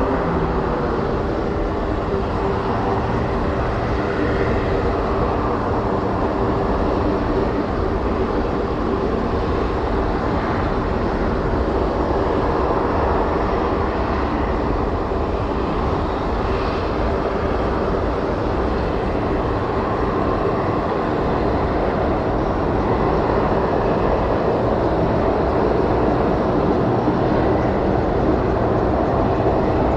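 Aircraft engines running: a steady, loud rumble with a few low hum tones at the start that fade within the first few seconds.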